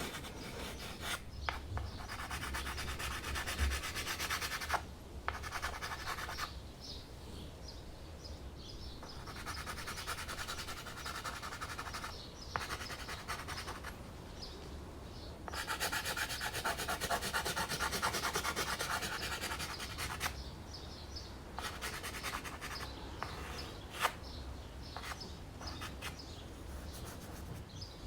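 Dry pastel stick scratching across primed canvas in quick back-and-forth strokes, in spells of a few seconds separated by short pauses.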